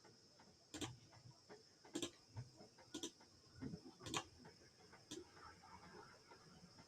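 Faint sharp clicks, five of them about a second apart, over near silence.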